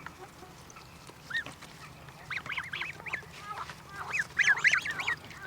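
Linda goslings peeping: short, high, rising-and-falling calls, a single one about a second in, a string of them from about two to three seconds, and a louder cluster near the end.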